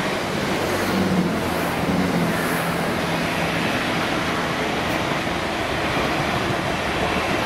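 Class 450 electric multiple unit passing through the station at speed: a steady rumble of wheels on the rails, with a low hum for the first few seconds.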